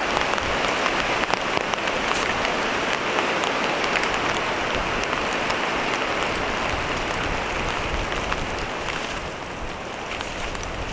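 Steady heavy rain, with a dense hiss and many close, sharp drop hits. It eases slightly about nine seconds in.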